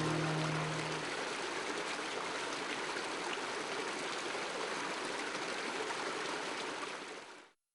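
Mountain creek water running steadily, then fading out just before the end.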